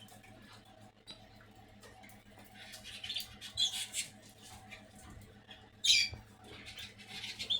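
Caged canaries giving a few short high chirps and calls, the loudest about six seconds in, over a faint steady low hum.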